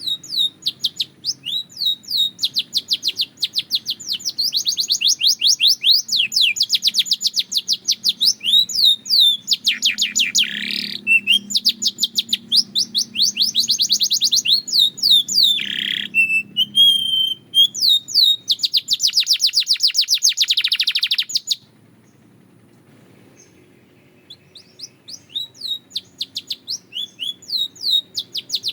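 Domestic canary singing long phrases of rapid trills and repeated chirping notes. It breaks off for about three seconds a little past two-thirds of the way through, then starts singing again.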